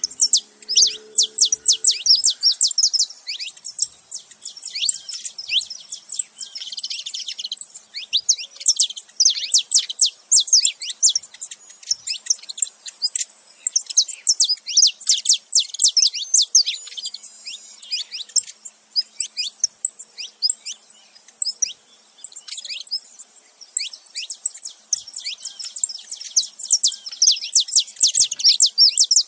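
A male and female saffron finch chirping together in a busy, continuous run of rapid, high-pitched notes.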